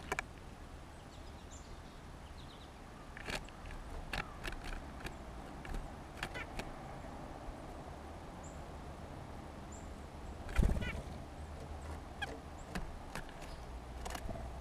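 Small songbirds at a feeder: scattered sharp taps and clicks, a few faint high chirps, and one louder thump about ten and a half seconds in.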